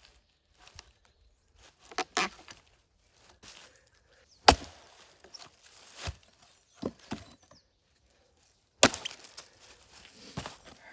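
Wood being chopped: three loud, sharp strikes a few seconds apart, with lighter knocks between them.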